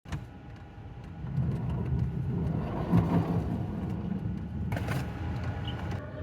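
A vehicle engine running with a steady low rumble, and a short sharp knock about five seconds in.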